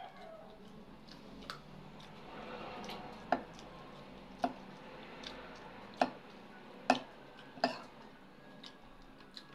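Close-up eating sounds: chewing fried fish and rice, with about six sharp mouth clicks spaced a second or so apart, the loudest two-thirds of the way in.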